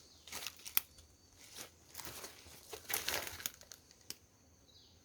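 Footsteps crunching through dry leaf litter on the forest floor, several steps in the first three seconds, then quieter near the end.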